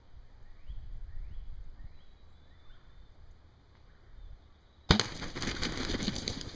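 Faint rising bird chirps, then a sudden loud shotgun blast about five seconds in. It is followed by a second and a half of heavy, rapid wing flapping from the shot wild turkey.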